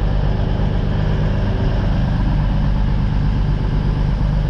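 Diesel freight locomotive engine running steadily at low revs, a deep even hum with no change in pitch.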